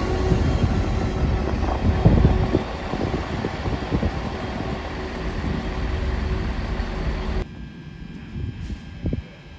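A train running through the station on the rails, its rumble slowly fading, then cut off suddenly about seven seconds in.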